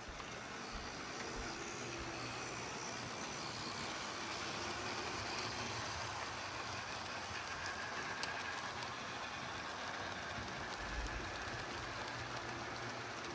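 HO-scale model train running along its track, a steady whir with one sharp click about eight seconds in.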